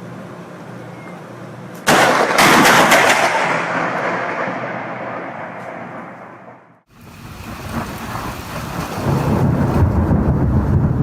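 Thunder from a close lightning strike: a sudden sharp crack about two seconds in, rolling and fading away over several seconds. After an abrupt break, steady noise returns with a deep rumble building near the end.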